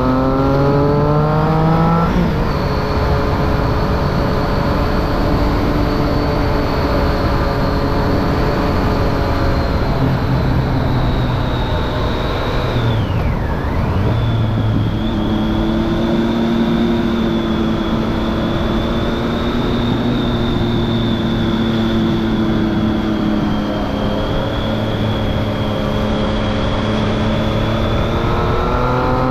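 Triumph Street Triple 675's inline-three engine through a Remus Hypercone exhaust with its dB killer fitted, revs climbing hard for the first two seconds, then a gear change and steady running. The engine eases off briefly around the middle and the revs climb again near the end.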